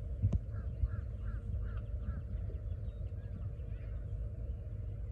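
A bird calling in the distance: a quick run of five or six short calls, about three a second, over a steady low rumble. A single sharp knock sounds just after the start.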